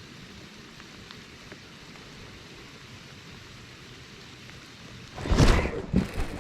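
Steady hiss of light rain falling. About five seconds in, a loud, rough burst of noise breaks in.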